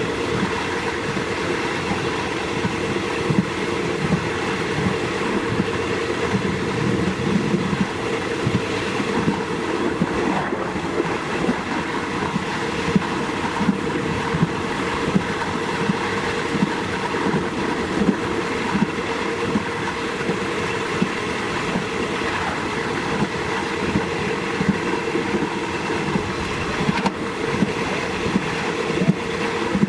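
Train running along the track, heard from on board: a steady rumble and drone with a continual clatter of wheels over the rail joints.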